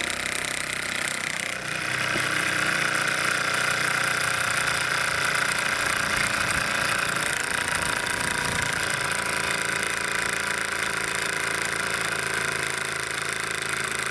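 Bowman M135 model steam engine running steadily under steam, with a steady hiss.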